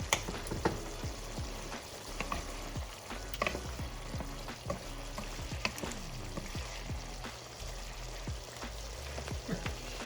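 Chicken sizzling in a frying pan while a utensil stirs it, with frequent irregular clicks and knocks against the pan.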